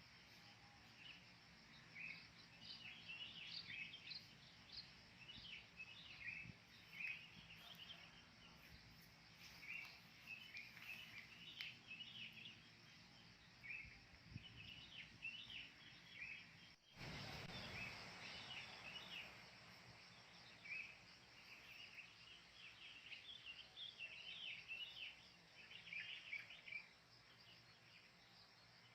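Faint chorus of wild birds, many short chirps and calls overlapping throughout. About two-thirds of the way through there is a brief break, followed by a low rumble lasting a second or two.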